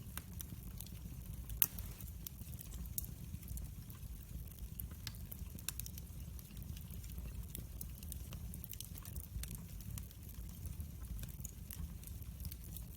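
Fireplace fire crackling: scattered sharp pops over a low, steady rumble, with one louder pop about a second and a half in.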